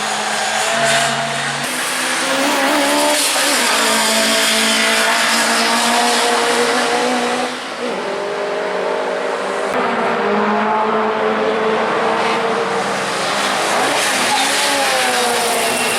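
Racing Mk1 Ford Lotus Cortina's Lotus twin-cam four-cylinder engine running hard on track, the pitch climbing under acceleration. Near eight seconds in, the sound dips briefly and the pitch drops, as at a gear change, then climbs again.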